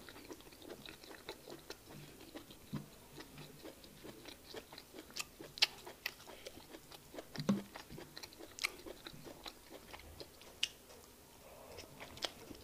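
Close-miked chewing of fufu and egusi soup, with irregular wet mouth clicks and smacks, a few of them sharply louder.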